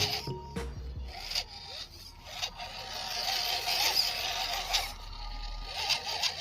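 Small electric motor of an RC truck whining, its pitch wavering up and down, over a rough scraping hiss.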